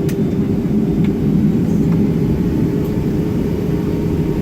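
Boeing 757-300 cabin noise with the engines running: a steady low rumble with a constant hum, and a couple of faint clicks in the first second.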